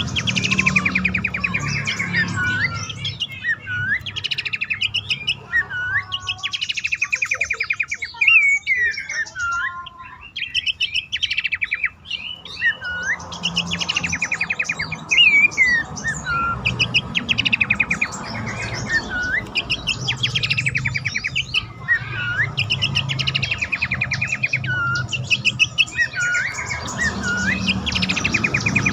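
Abbott's babbler calling: rapid chattering trills alternate with short whistled notes that dip and rise again, repeated over and over, with a quieter spell about a third of the way in.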